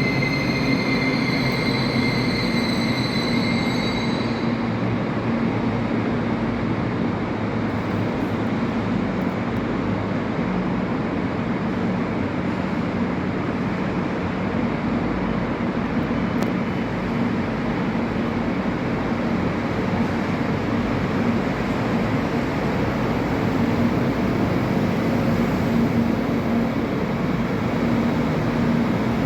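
Train in the station running with a steady rumble. A high whine fades out about four seconds in.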